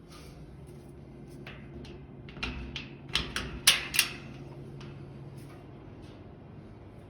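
A quick run of about ten sharp clicks and knocks over roughly three seconds, loudest just past the middle, over a steady low hum.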